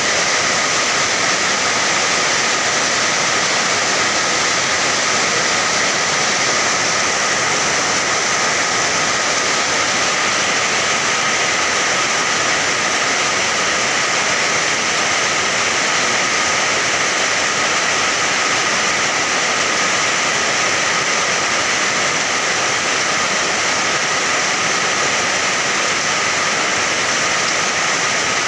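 Steady rain, a dense even hiss that holds constant throughout.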